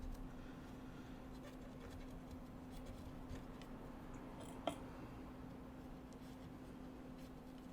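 Faint scratching and light handling of small tools and the circuit board on a workbench, with one sharp click a little past the middle, over a steady low electrical hum.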